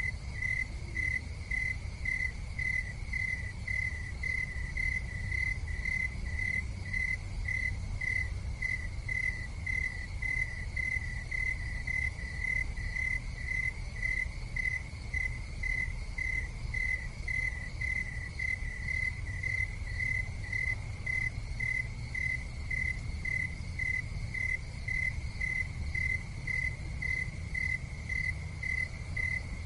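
An insect chirping steadily, an evenly spaced high chirp about twice a second, over a low steady rumble.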